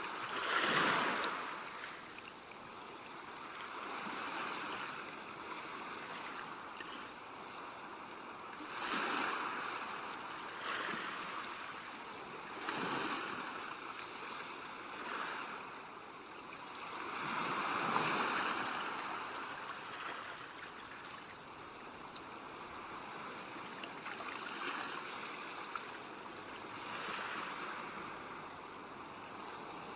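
Ocean waves breaking and washing on the shore, in repeated surges every few seconds over a constant hiss of surf.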